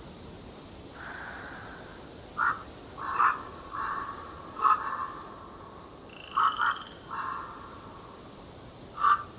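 Birds calling in a forest: a series of short, loud, harsh calls, some in quick pairs, with longer raspy calls between them and a brief higher whistle about six seconds in.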